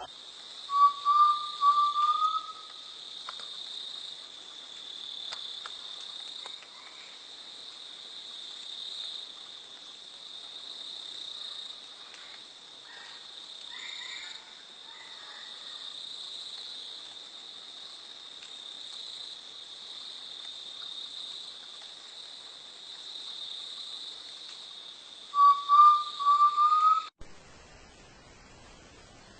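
A bird sings a short phrase of about five whistled notes, stepping slightly upward in pitch, twice: about a second in and again near the end. Under it runs a steady, high insect chorus, which stops abruptly shortly before the end.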